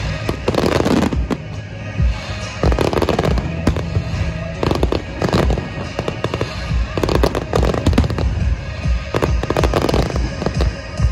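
Aerial fireworks bursting in volleys of bangs and crackles, a new cluster about every two seconds, with music playing under them.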